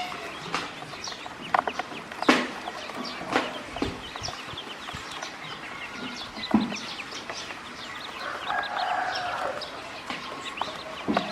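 Ducklings peeping continuously, many short high calls overlapping, with a few sharp knocks in between.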